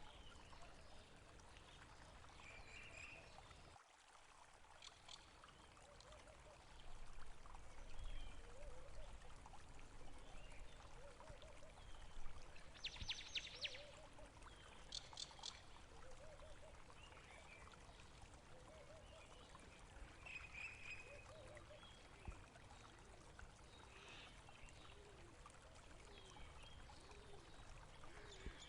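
Faint running water, a stream trickling and flowing, with a few short high chirps now and then.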